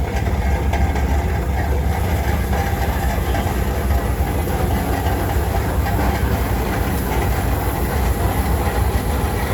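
Steam traction engine running, a steady low rumble.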